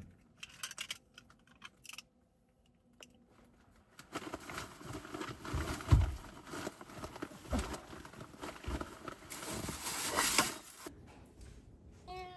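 Rustling and clicking handling noises, with two dull thumps in the second half.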